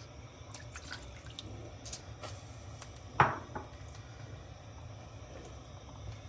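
A pot of soup being stirred as cornflour slurry is added: a few faint clicks, then one loud liquid plop about three seconds in, over a steady low hum.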